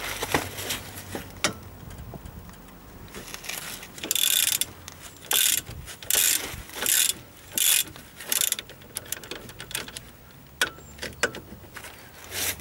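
Hand ratchet wrench clicking in six short back-and-forth strokes, undoing the bolts of a car's brake caliper support, with a few sharp metal clinks before and after.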